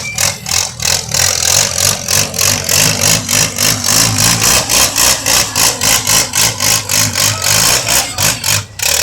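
Loud mud-bog vehicle engine running with a loping, pulsing beat of about three pulses a second.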